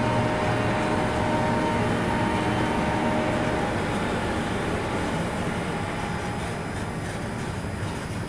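Freight train passing on the adjacent track, hauled by twin WAG-7 electric locomotives: a steady rumble of wheels on rail with a steady whine from the locomotives that fades out about three seconds in, then the loaded coal hopper wagons rolling past.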